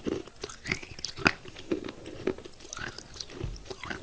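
Thick pieces of broken baked clay pot being bitten and chewed close up, with irregular crisp cracks and crunches between softer grinding. The sharpest crack comes about a third of the way in.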